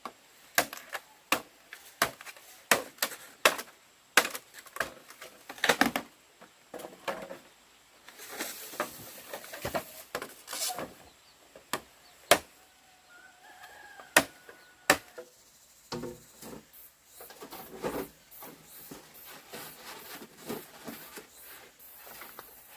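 Repeated sharp chopping knocks at an uneven pace, often one to two a second, with a faint drawn-out fowl call about halfway through.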